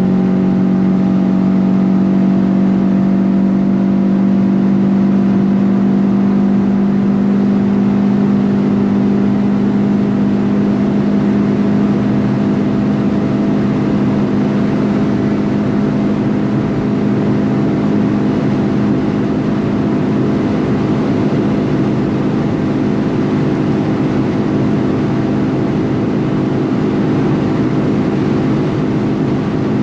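Renault Clio RS 172's 2.0-litre naturally aspirated four-cylinder engine heard from inside the cabin at high autobahn speed: a steady, unchanging engine drone at high revs. Constant wind and tyre noise runs under it, and the drone eases slightly in the second half.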